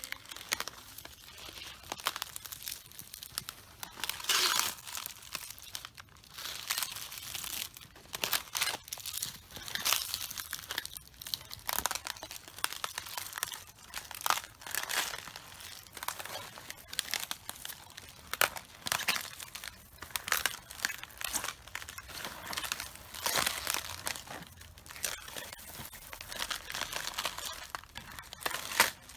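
Cabbages being crushed underfoot: crisp leaves crunching, crackling and tearing with each step, a crunch every second or two.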